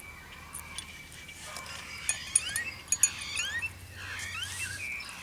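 Birds chirping in repeated short rising notes, thickest in the second half, with a few light clinks mixed in.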